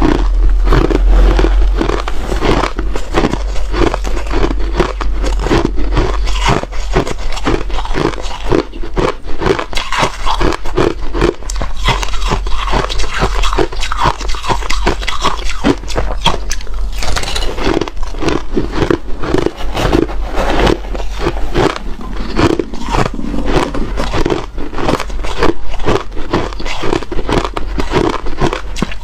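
Ice being bitten and chewed close to the microphone, a dense run of crunches and cracks. A steady low hum lies underneath.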